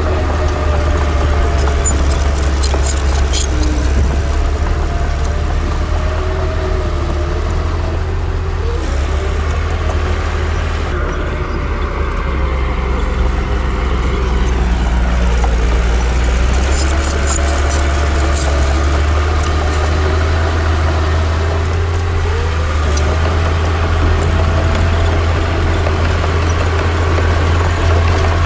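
Komatsu D60 bulldozer's diesel engine running under working load, its pitch wavering up and down as it pushes soil, with a few faint metallic clinks.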